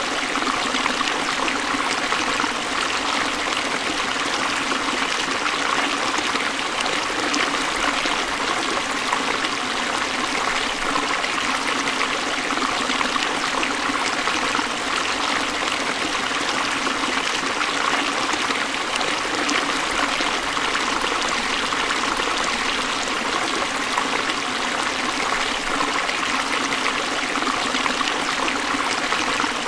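Forest stream flowing steadily over rocks, a constant rushing and trickling of water.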